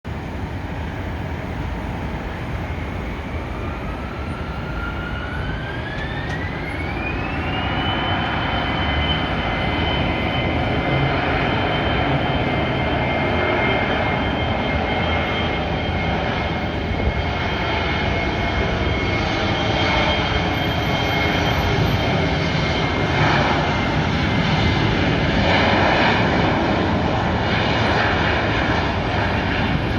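Embraer E175 regional jet's twin General Electric CF34 turbofans spooling up for takeoff: a whine rises in pitch over a few seconds, then holds steady over a jet roar that grows louder as the aircraft makes its takeoff run.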